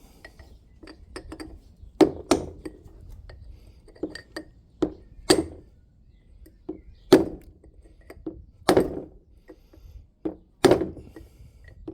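Hammer blows on a steel chisel used as a drift, driving a wheel bearing into its hub: about a dozen sharp metallic strikes at an uneven pace, some heavy and some lighter taps, each ringing briefly.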